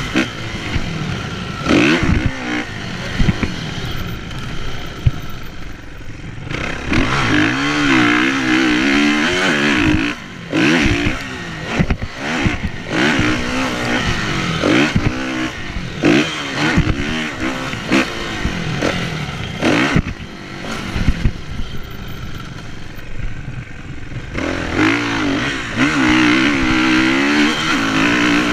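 Kawasaki KX450F single-cylinder four-stroke motocross engine being ridden hard, revving up and dropping off again and again as the throttle is worked. Short knocks and clatter from the bike run between the revs.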